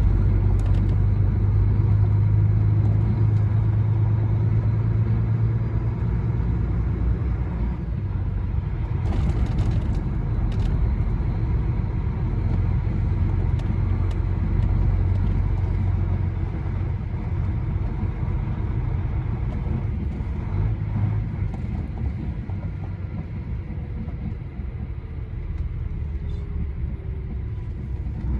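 Lorry's diesel engine and tyres running steadily on the road, heard from inside the cab: a deep, even hum that is strongest over the first several seconds and eases a little after, with a brief hiss about nine seconds in.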